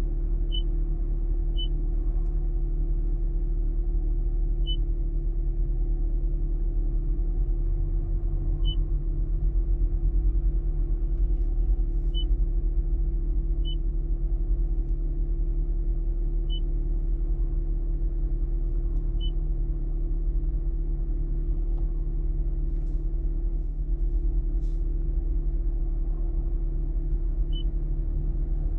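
2025 Toyota Corolla's engine idling, a steady low hum heard from inside the cabin, with about ten short high beeps at irregular intervals from the infotainment touchscreen being pressed.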